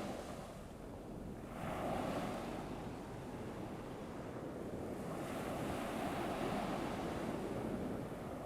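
Recorded ocean waves washing onto a shore, with a steady hiss of breeze. The surf swells about a second and a half in, eases off, then builds again about five seconds in.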